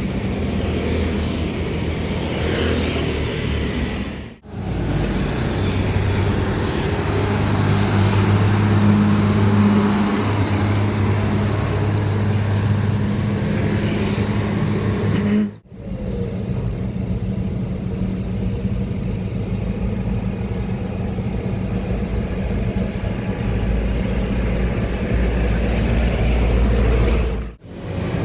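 Diesel trucks on a road, engines running amid traffic noise, in short clips that cut off suddenly three times and start again with a different engine sound.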